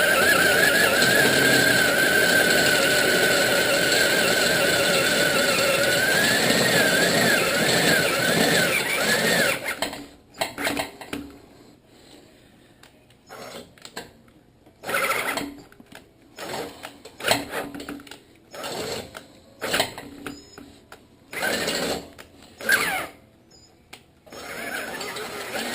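Electric drill boring through the steel plug inside a stock Harley-Davidson muffler: a continuous whine for the first nine seconds or so, its pitch sagging and wavering as the bit bites, then stopping and going on in about ten short trigger bursts.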